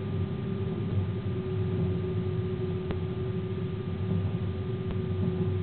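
A passenger train's locomotive running along the track, heard from inside the driver's cab: steady low running noise with a constant hum, and two sharp clicks.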